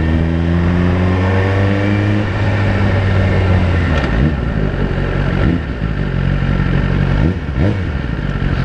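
Suzuki GSX-R1000's inline-four engine through a Yoshimura slip-on exhaust pulling hard: the revs climb over the first two seconds, then settle to a steadier note that drops lower near the end.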